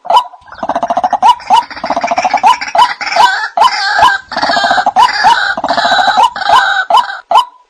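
White-breasted waterhen calling: sharp notes repeated about twice a second, joined about half a second in by a dense, raucous chorus of overlapping croaking calls. Near the end the chorus stops and the single repeated notes carry on alone.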